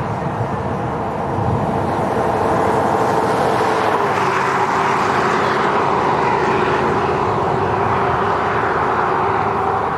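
Steady vehicle drone, an engine's held tone over road noise, getting louder about a second and a half in.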